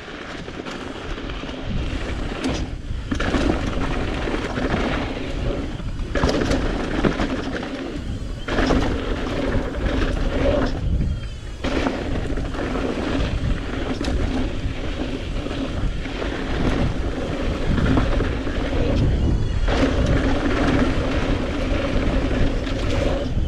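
Strong wind gusts buffeting the microphone with a deep rumble, over the steady rolling noise of mountain bike tyres on a dirt trail. The rolling noise drops out briefly several times.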